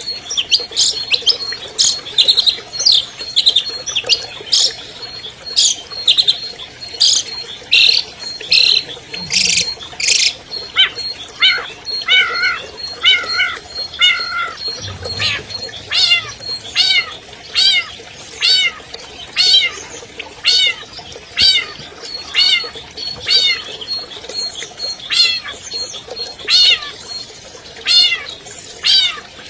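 Long-tailed shrike singing: a run of harsh, scratchy notes, then a long series of repeated downward-sliding whistled notes, at first about two a second and then slowing to about one a second.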